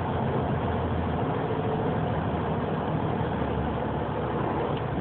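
Semi-truck's diesel engine running with a steady low drone, heard from inside the cab.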